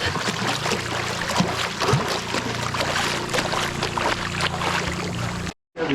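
Water splashing and lapping around swimmers paddling in life vests, over the steady low hum of a boat engine running. The sound cuts out briefly near the end.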